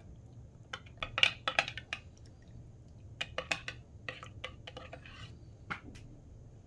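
A spoon stirring a cup of instant coffee, clinking against the sides of the mug in irregular bursts of quick taps.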